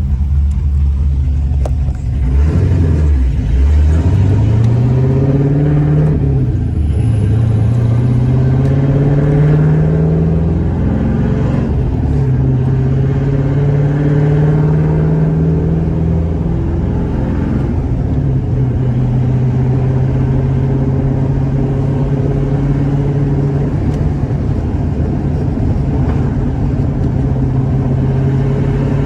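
LS V8 in a Nissan 350Z running through a 2.5-inch X-pipe with no mufflers or resonators, accelerating hard. The engine note climbs in pitch and drops at each upshift, several times over the first ten seconds or so. After that it holds a steady drone while cruising, with one small step down in pitch in the middle.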